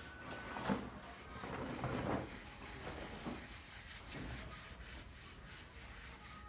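Scattered knocks and scraping of hand construction work: a sharp knock about a second in, then a longer rough scrape, then a few fainter knocks.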